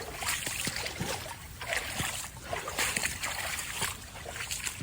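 Shallow creek water trickling over its cleared bed, with intermittent splashing.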